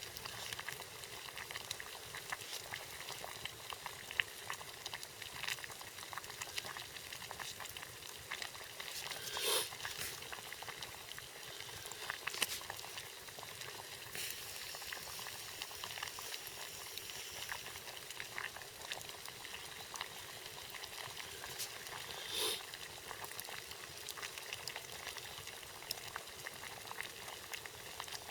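Water boiling in a pot over a campfire, a steady crackling, bubbling hiss full of tiny pops. Two brief louder bursts break in, about ten seconds in and again past twenty seconds.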